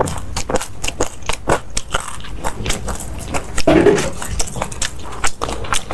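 Close-miked biting and chewing of crunchy food, a quick irregular run of crisp crunches, louder about four seconds in.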